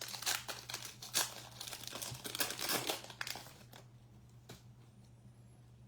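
Wrapper of a trading card pack being torn open and crinkled by hand: a dense run of crackling for about four seconds that thins to a few scattered crinkles near the end.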